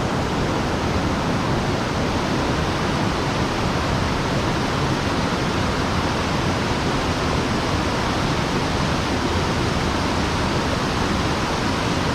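Mountain stream water rushing steadily, an even unbroken wash of falling and running water.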